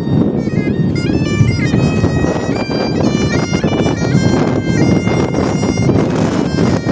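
Bagpipes playing a melody in steps over their steady drone, with strong wind buffeting the microphone as a heavy low rumble underneath.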